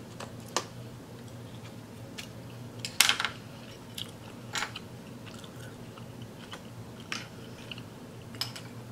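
Close-miked chewing and biting of a mouthful of seafood boil: wet mouth sounds with scattered sharp clicks, the loudest about three seconds in.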